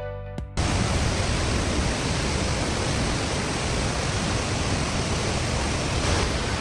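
Steady, dense rush of water falling from a waterfall about 200 feet high, heard close to its base. Background music cuts off suddenly about half a second in, just as the water sound begins.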